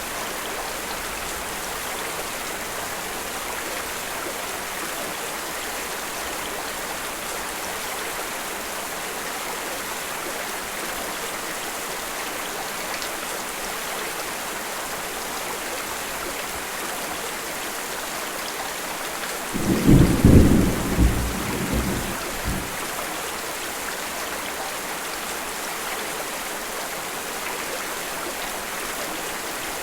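Steady rain, with a low rumble of thunder about two-thirds of the way through that swells in a few peaks over some three seconds and dies away.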